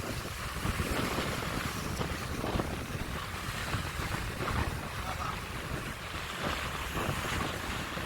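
Strong wind buffeting the microphone over the steady wash of rough sea surf.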